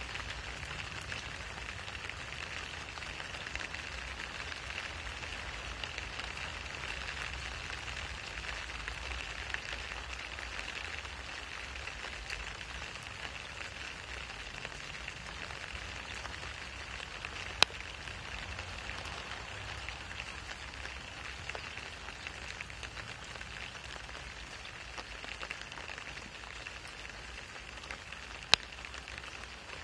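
Steady rain falling on wet asphalt and pattering into shallow puddles, an even hiss with a low rumble underneath. Two sharp clicks stand out, one a little past halfway and one near the end.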